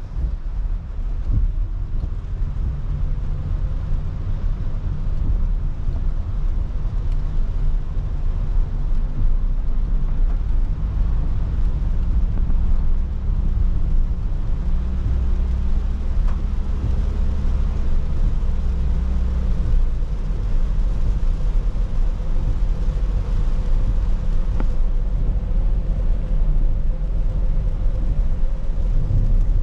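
Car driving on a wet road in the rain: steady low rumble of engine and tyres with a hiss of water and rain, the engine note rising and falling a little around the middle.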